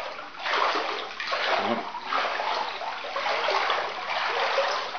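Floodwater swishing and sloshing around legs wading through it, swelling with each stride about once a second.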